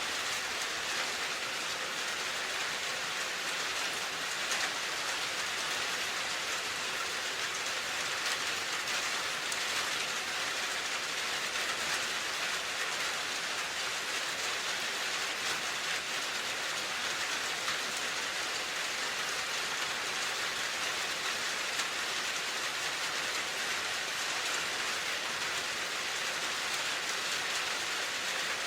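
Steady rain falling, a dense even hiss with fine scattered drop patter.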